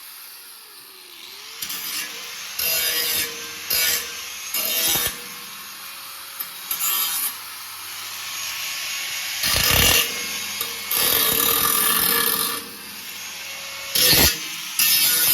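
Metalworking on thin snowmobile frame steel, in a string of short noisy bursts that start and stop, some brief and some lasting a second or two.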